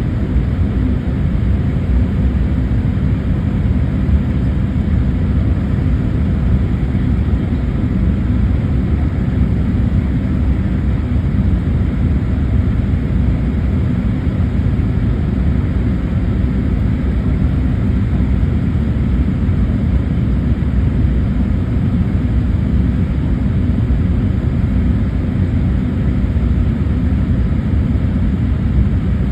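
Steady low noise of an airliner in flight, engines and airflow, as heard inside the passenger cabin on the approach to landing.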